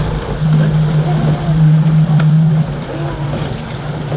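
A boat's motor running with a steady low hum, louder in the first half and easing off about two and a half seconds in, over wind and water noise.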